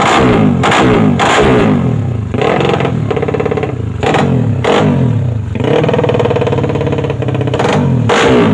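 Motorcycle engine revved over and over in quick throttle blips, each rising in pitch, with revs held steady twice for a second or two.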